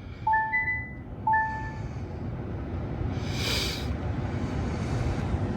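Electric car's cabin chimes: two electronic beeps about a second apart as the car powers up. Then a steady low hum builds, with a brief hiss about three and a half seconds in.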